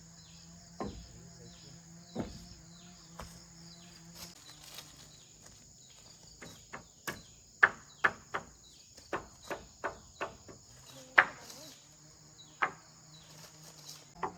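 A series of irregular sharp knocks, sparse at first and then coming faster and louder through the middle, over steady insect chirring.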